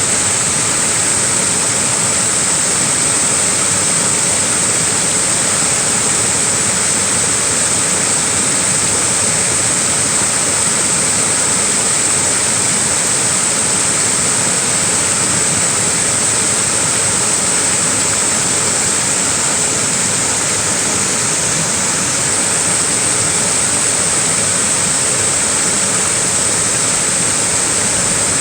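Small waterfall rushing steadily, an even, unbroken hiss of falling water with a strong bright edge to it.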